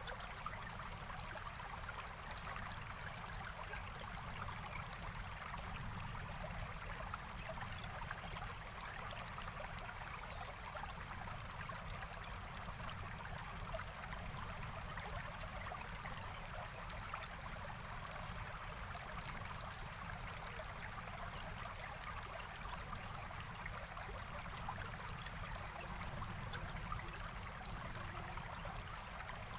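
Forest stream running steadily over stones, a continuous rushing babble, with faint scattered crackles from a campfire.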